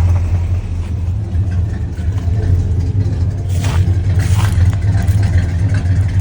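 1972 Chevrolet Caprice's V8 running steadily on a cold start after sitting unstarted for six months.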